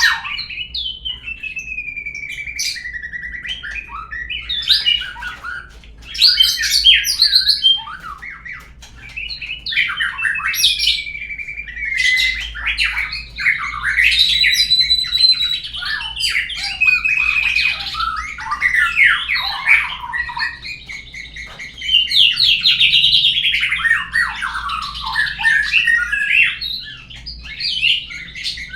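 Murai batu (white-rumped shama) song played as a lure recording (suara pancingan) to set a caged bird singing: a continuous, varied run of clear whistled phrases, rapid trills and harsh squawky notes with short pauses.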